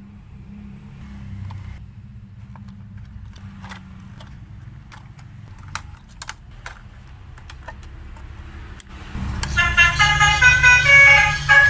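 Battery-powered toy truck's small motor whirring, with light plastic clicks and ticks. About nine seconds in, its electronic sound chip starts loudly, playing a beeping tune of quick changing notes over a louder motor hum.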